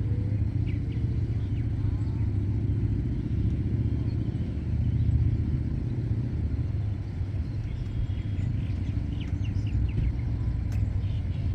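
A motor engine running steadily at a low pitch, with a few faint bird chirps above it.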